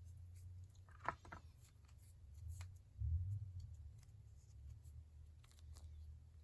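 Faint handling noise: a low rumble, with a short cluster of small clicks about a second in, a soft bump about three seconds in and a few lighter ticks.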